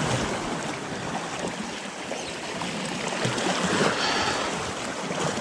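Small waves washing steadily in the shallow surf of the beach, with some wind on the microphone.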